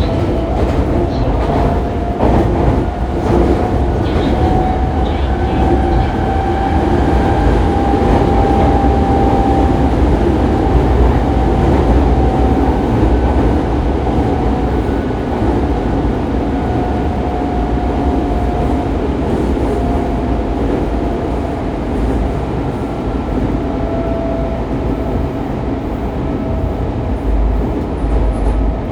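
Fukuoka City Subway 2000 series train running, heard from inside the car: the steady rumble of wheels on rail, with the Hitachi GTO-VVVF inverter's motor tone rising a little over the first several seconds, then fading in and out.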